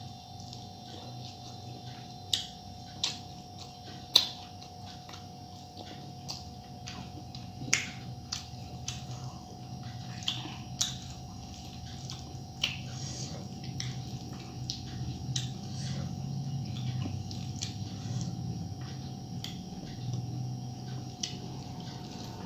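Close-up eating sounds: sharp wet clicks and smacks of chewing, a dozen or so scattered through, busier and softer in the second half, over a steady low hum.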